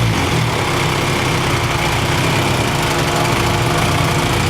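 Nissan SR20VE 2.0-litre inline-four idling steadily, its idle set on the low side, with the electric radiator cooling fan running.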